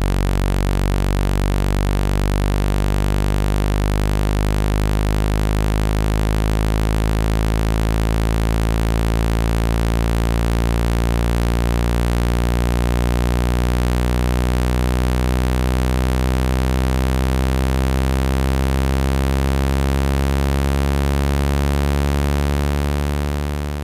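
Steady low electronic tone with many buzzy overtones, a speaker-cleaning tone played at full volume to vibrate trapped water out of a phone speaker. It begins to fade out near the end.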